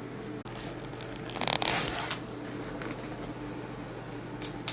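A short rough scraping rustle about a second and a half in, then a few light clicks, over a low steady hum.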